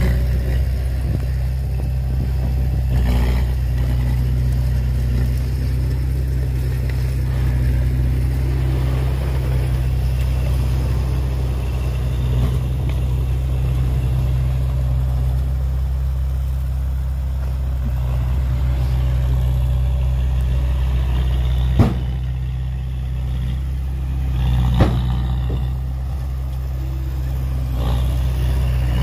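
Heavy diesel construction machinery running steadily, a deep engine drone. Short metallic knocks stand out now and then, two of them sharper about three seconds apart near the end.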